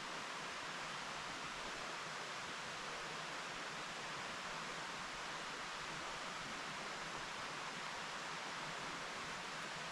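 Mountain stream flowing over rocks, a steady even rush of water with no other events standing out.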